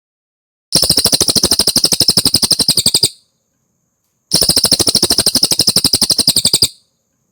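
A cililin bird singing two rapid trills of evenly repeated notes, each lasting about two and a half seconds, with a short pause between them.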